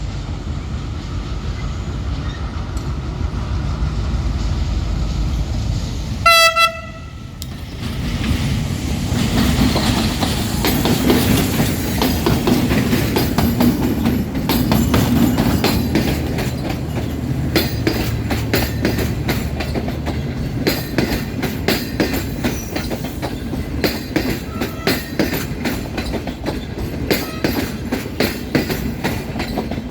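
Passenger train going by: the locomotive rumbles as it comes up, sounds one short horn blast about six seconds in, then the cars roll past with a rapid clickety-clack of wheels over the rail joints.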